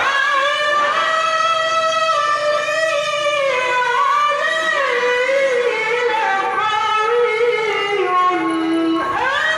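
A male qari's voice reciting the Quran in melodic tilawah style, holding one long, ornamented phrase at a high pitch. The pitch winds and slides before falling lower near the end. After a short break for breath, the next phrase begins.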